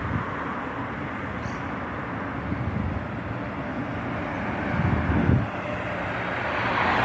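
Wind buffeting the microphone: a steady rumbling rush with a stronger gust about five seconds in and rising again near the end.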